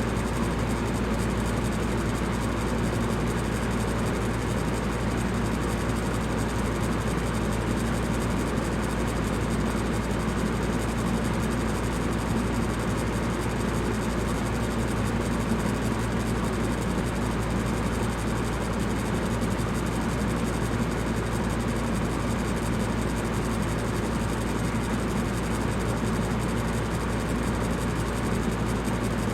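Electric fan running steadily: an even whooshing noise over a low hum, with no change in speed.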